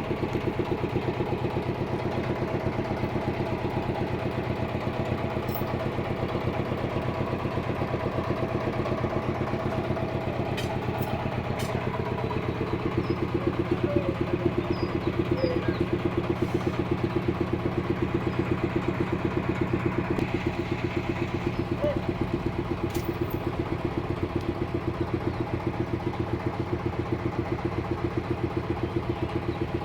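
Engine of a homemade sawmill running steadily with an even, rapid pulse; its tone shifts slightly about twelve seconds in.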